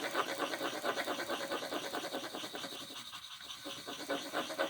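Coloured pencil scribbling on paper in rapid back-and-forth strokes, colouring in a small circle.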